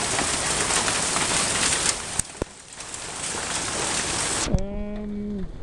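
Heavy hail mixed with rain pelting down, a dense hiss of countless impacts with sharp individual cracks standing out. The noise drops off suddenly about four and a half seconds in, followed by a short held voice.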